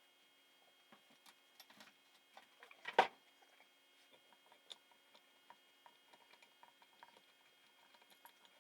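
Small parts and hand tools being handled on a workbench: light clicks and taps throughout, with one louder sharp clack about three seconds in.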